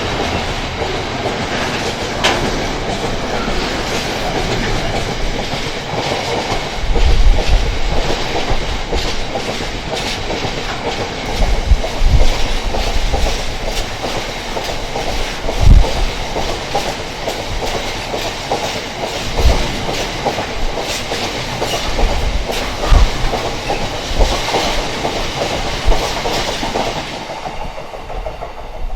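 Intermodal container freight train's wagons rolling past at speed, a steady rumble with heavy thumps every few seconds as wheelsets cross rail joints. The noise drops away near the end as the last wagons pass.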